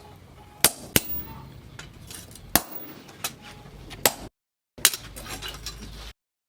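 Hammer tapping metal: about six sharp, uneven strikes with a short clink after each, over a low workshop background. The sound cuts off abruptly twice.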